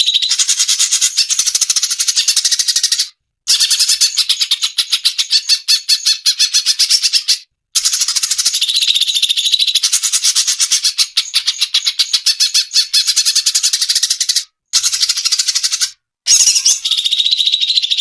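Recorded cucak cungkok song: long runs of very fast, dry chattering trills, broken every few seconds by brief pauses.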